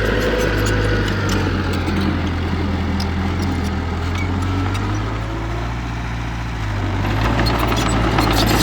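Heavy-equipment diesel engine running steadily, easing off slightly and then picking up again about seven seconds in, with some light clattering near the end.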